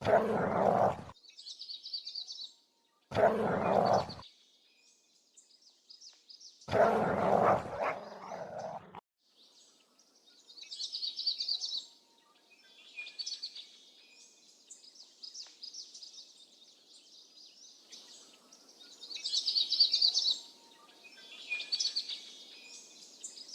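Wolves giving three loud, harsh barks in the first nine seconds. Birds then keep chirping in short repeated phrases.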